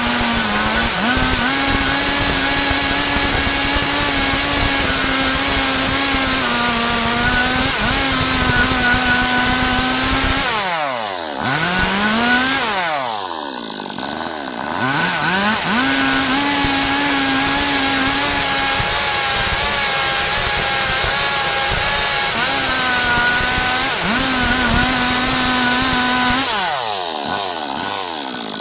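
Stihl MS 382 two-stroke chainsaw cutting a log at full throttle, its pitch dipping briefly now and then. About ten seconds in, the throttle drops off to idle for a few seconds and the saw revs back up; near the end it drops off and revs up once more.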